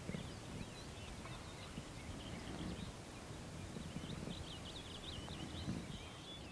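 Birds chirping and calling in the dawn quiet, busiest in the middle, over faint low thuds.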